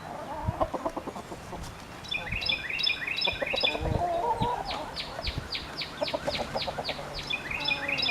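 Backyard hens clucking in short rapid runs, with wild songbirds singing fast repeated trills over them.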